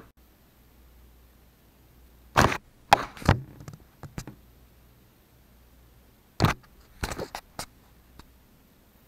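A few sharp knocks and thumps in two clusters, about two and a half seconds in and again about six and a half seconds in, with quiet between: handling knocks.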